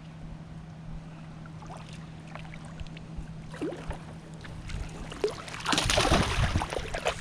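Water splashing and trickling against a kayak, with small knocks, and a louder rush of splashing about six seconds in. A faint steady hum runs underneath.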